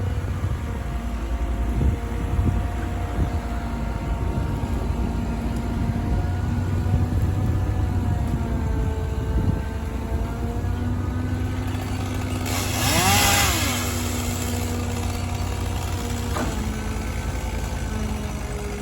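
An engine running steadily, its pitch wavering slightly over a low rumble. About two-thirds of the way through comes a brief loud hissing surge whose tone rises and falls, and soon after the engine's pitch drops suddenly.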